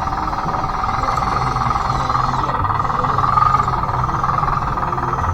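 Converted Bruder D5 RC bulldozer's electric drive motors and gearboxes running with a steady whine and a low hum that steps up and down.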